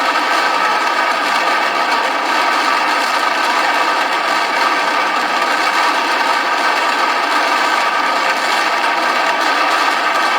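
Multirotor drone's motors and propellers running in flight: a steady whir with a constant high whine, unchanging throughout, with no firework bangs heard.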